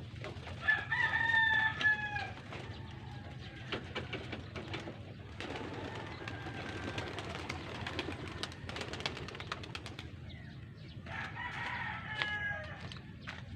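Birds calling: a long, slightly falling call about a second in and another one near the end, with scattered clicks in between.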